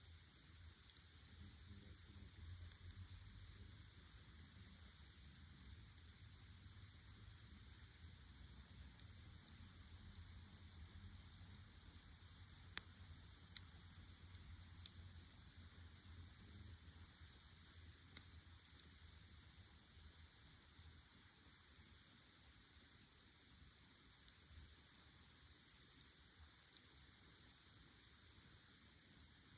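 A steady, high, unbroken chorus of crickets on a warm summer night. A campfire adds a few faint pops and crackles, and there is a low rumble underneath.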